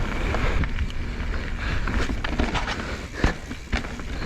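Mountain bike riding over a rough dirt trail: steady wind rumble on the microphone, with sharp knocks and rattles from the bike over bumps, the loudest about three seconds in.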